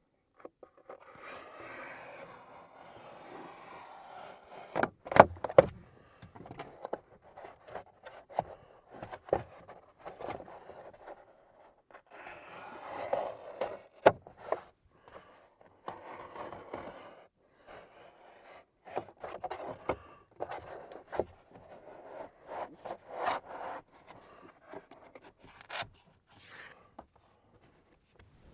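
Styrofoam board being cut and handled: stretches of scraping and rubbing broken by sharp clicks and knocks, the loudest about five seconds in.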